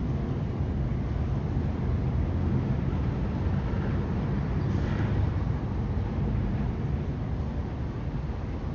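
Steady low outdoor rumble with no distinct tones, with a brief faint hiss about five seconds in.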